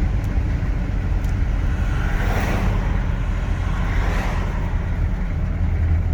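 GMC squarebody pickup's 6.2L V8 diesel running under way with a trailer in tow, heard as a steady low drone with road noise. Two softer swells of rushing noise pass, about two and a half and four seconds in.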